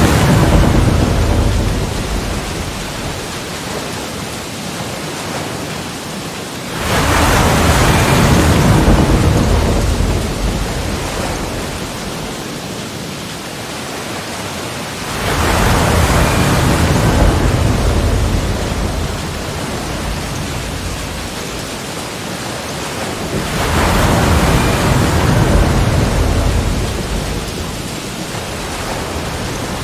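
Sea waves breaking on the shore and against rocks. A wave breaks at the start, and others come about 7, 15 and 24 seconds in. Each builds quickly into a deep rush and fades into a steady hiss of surf.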